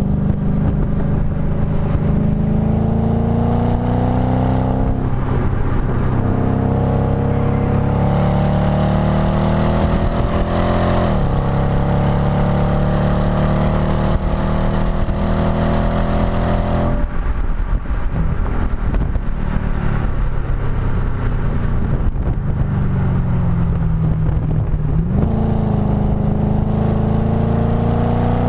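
B7 Audi S4's 4.2-litre V8 heard close at the STaSIS aftermarket exhaust outlet, running hard on track. The engine note climbs repeatedly, dipping briefly about five and eleven seconds in, then falls steadily for about eight seconds before climbing again near the end.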